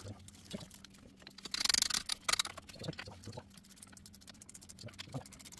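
Ratchet and 13 mm socket clicking in a quick run about one and a half seconds in, with a few scattered knocks, while the wheel hub bearing bolts are being tightened down.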